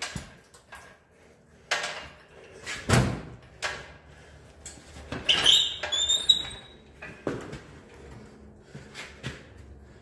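Engine hoist lifting an old 350 V8 out of a car's engine bay: scattered metal knocks and clanks, with a high squeal about five seconds in as metal rubs on metal.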